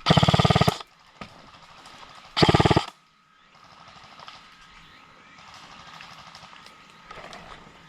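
Two short full-auto bursts from a KRYTAC Trident PDW-M electric airsoft gun, a rapid rattle of shots each lasting under a second, the second about two seconds after the first.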